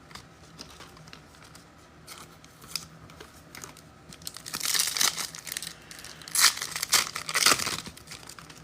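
Plastic-foil trading-card pack wrapper being crinkled and torn open, in several crackling bursts that begin about halfway through, after a few light handling clicks.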